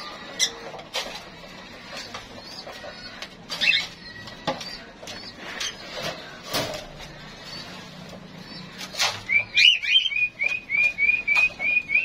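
Caged birds: scattered sharp clicks and short chirps, then from about nine seconds in one bird gives a rapid run of high, repeated chirps, about five a second.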